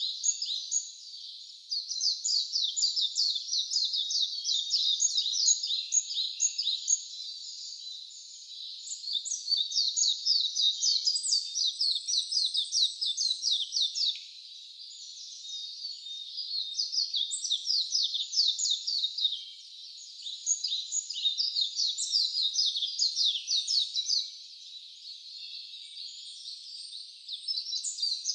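Songbird singing long, rapid, high-pitched chattering phrases of quick falling chirps, each phrase lasting several seconds, repeated with short pauses between them.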